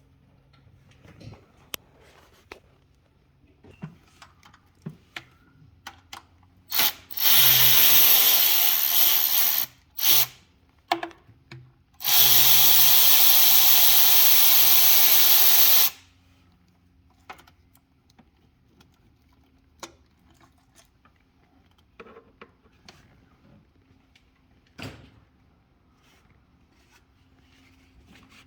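A handheld power tool's electric motor runs in bursts: a short blip, a run of about two and a half seconds, another blip, then a steady run of about four seconds. Light clicks and knocks of tools and parts being handled come in between.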